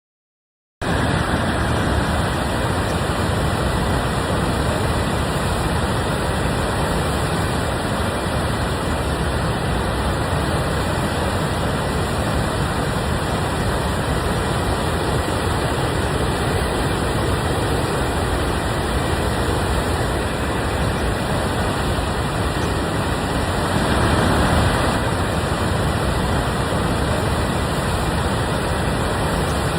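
Steady rushing noise of the Skykomish River in flood pouring over Eagle Falls, starting abruptly about a second in and swelling briefly near the end.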